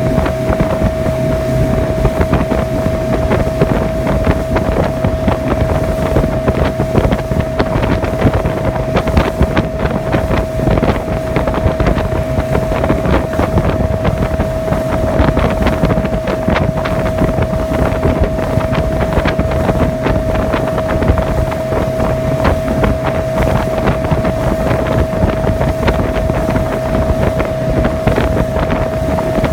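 Sea Swirl motorboat running at a steady speed, its motor holding a steady whine over the rush of water and wind. Wind buffets the microphone throughout.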